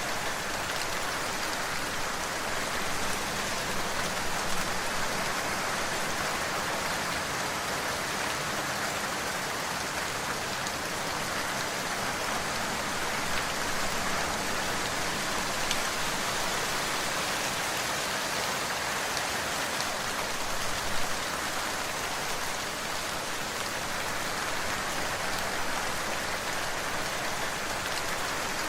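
Steady, dense rainfall: an even hiss of drops with occasional single louder drop ticks.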